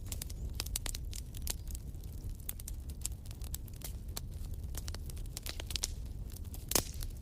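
Fire burning in a fireplace, crackling with irregular sharp pops over a low rumble, with one louder pop near the end.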